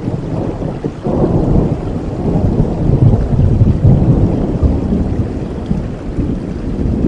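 Steady rain with a low rolling rumble of thunder that swells about a second in, is loudest in the middle, and eases off toward the end.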